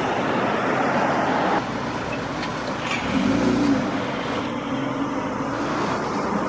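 A car pulling away slowly, its engine running low and steady, with a brief louder engine note about three seconds in.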